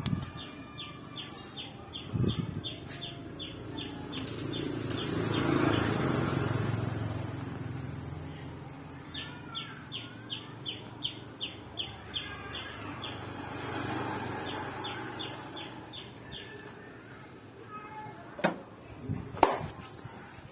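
A bird chirping in quick runs of short, evenly spaced high notes, about three a second. A low rumble under it swells and fades twice, and there are a few sharp knocks near the end.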